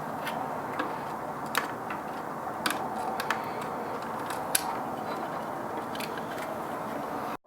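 Scattered light clicks and ticks of the motor mount screws and small parts being handled as the screws are started into a Baratza Forte grinder, over a steady background hiss. The sound cuts off suddenly near the end.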